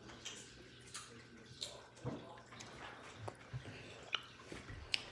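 Faint, scattered clicks and light knocks over a low steady hum.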